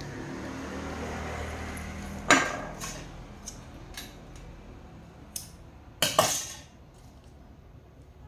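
Metal tools and parts clinking and clanking on a workbench, about six sharp knocks, the loudest about two seconds in and a double one about six seconds in. A low hum runs underneath at first and fades out about two seconds in.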